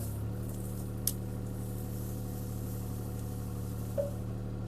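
CAT 303C CR mini excavator's diesel engine running steadily, with a single sharp click about a second in.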